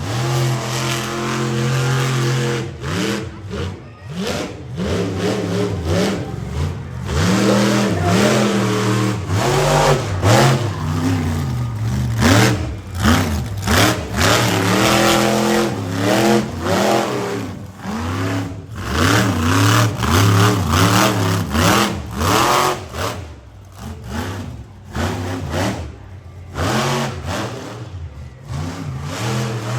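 Monster truck engine revving hard, its pitch climbing and falling over and over with the throttle, with sharp bangs now and then.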